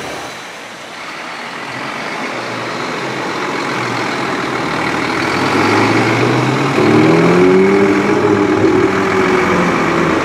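Ferrari 488 GTB's twin-turbocharged 3.9-litre V8 driving at low speed in city traffic. It grows louder over the first few seconds and then holds a steady low engine note, loudest in the second half.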